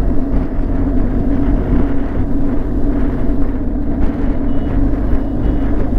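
BMW R 1200 GS flat-twin motorcycle engine running steadily at cruising speed, with road and wind noise.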